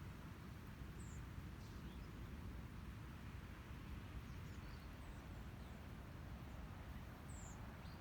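Small birds giving a few short, thin, high-pitched calls: one about a second in, a couple mid-way and one near the end. They sit over a faint, steady low background rumble.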